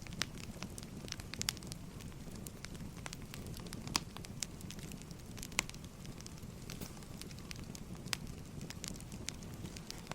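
Wood fire burning: a steady low rumble with frequent, irregular sharp crackles and pops, two louder pops about four and five and a half seconds in.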